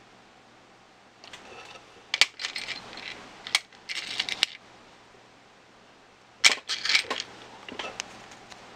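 Small RC truck parts and hand tools clicking and clinking against each other on a workbench as a suspension A-arm is fitted, in several short clusters of sharp clicks with brief pauses between.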